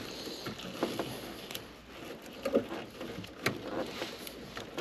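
Handling noise of hands working on wiring: scattered clicks and taps with brief rustles.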